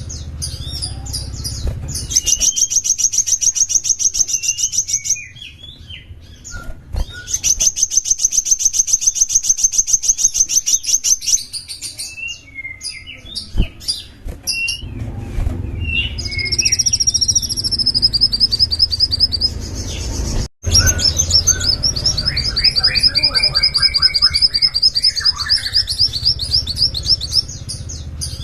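A small songbird singing long, fast, high-pitched trills of evenly repeated notes, each run lasting several seconds, with short pauses and scattered chirps between them.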